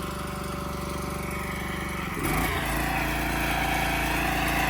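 An engine running steadily; about two seconds in, its pitch shifts and it gets louder.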